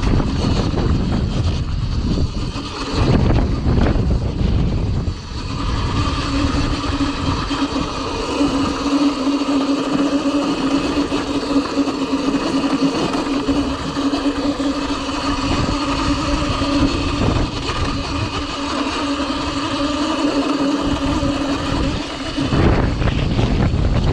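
Cake Kalk OR electric dirt bike's motor whining at a steady pitch under riding load, over a rumble of wind on the microphone. The whine comes in about five seconds in and drops out a couple of seconds before the end.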